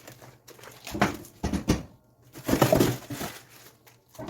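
Frozen food packs and plastic bags being pulled out of a packed freezer compartment: irregular rustling and crinkling with a few knocks, the loudest stretch a little past halfway.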